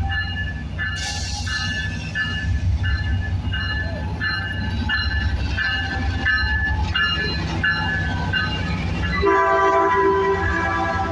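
Metrolink F59PH diesel locomotive pulling a passenger train slowly past: its bell rings steadily at about three strokes a second over the low rumble of the engine and wheels, with a short hiss about a second in. Near the end the locomotive's air horn sounds, a chord of several notes.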